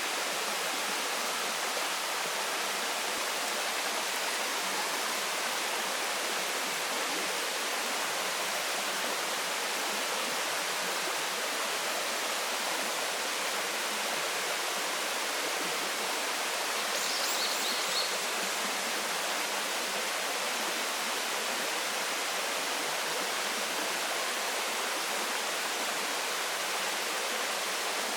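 Waterfall plunging and splashing in a steady, even rush of water. A short burst of high chirps cuts through about two-thirds of the way in.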